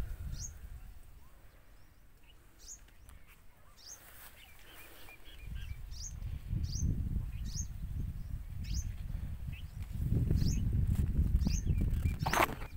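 A bird chirping repeatedly, short high downward-sliding chirps about once or twice a second. A low rumbling noise swells from about halfway through, and there is a short sharp sound near the end.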